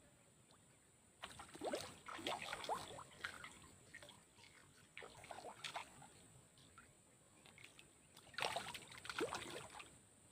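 Water splashing and dripping in three short bursts, with small sharp plinks between.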